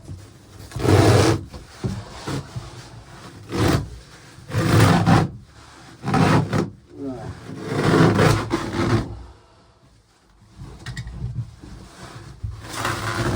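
Old moldy carpet lining being torn and scraped off the boat's interior, in repeated rough strokes about a second long with short pauses between them.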